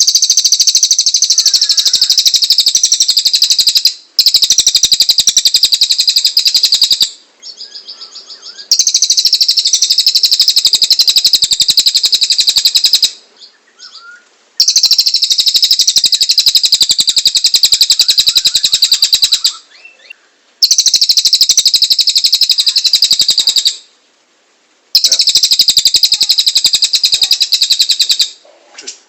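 A cililin songbird singing in long, rapid, high-pitched trilling bursts of several seconds each, with short pauses between them.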